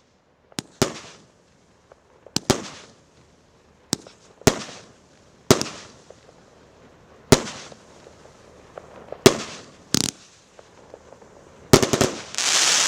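A 1-inch, 36-shot firework battery (Galaktika 'Belye Nochi' A7390) firing its last shots: separate sharp bangs a second or two apart, each trailing off into a crackle. Near the end several shots go off close together and end in a dense crackling hiss, as the finale's crackling crowns burst.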